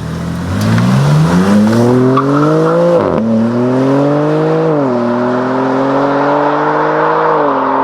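2021 BMW M4 Competition's twin-turbo straight-six accelerating hard through the gears. The engine note climbs steadily, then drops sharply at upshifts about three seconds in, about five seconds in and near the end.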